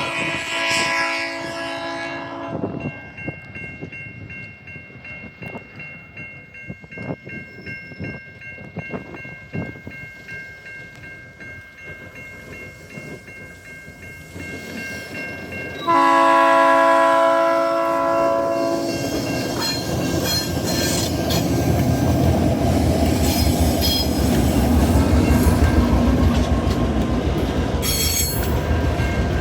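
TasRail locomotive 2051, a diesel-electric, sounds its chord horn, which ends about two seconds in. Wheels click faintly on the track, the horn sounds again for about two seconds, and then the locomotive and coal wagons rumble past, growing louder. Near the end there is a brief high wheel squeal as the train takes the curve.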